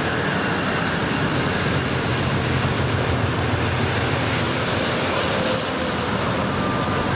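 Train running on the rails: a steady, even noise of wheels on track. A thin high tone comes in near the end.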